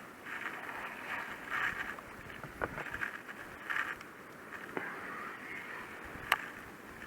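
Wind-driven small waves lapping and splashing against the hull of a small boat, in irregular slaps about every second. Light knocks are heard, with one sharp click about six seconds in.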